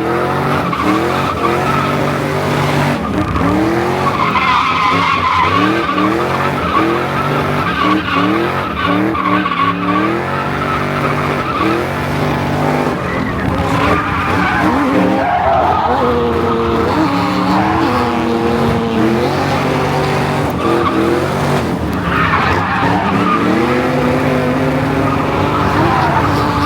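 Drift car engine revving hard, its pitch repeatedly climbing and dropping every second or two as the driver works the throttle through a drift, with tires skidding and squealing as the car slides.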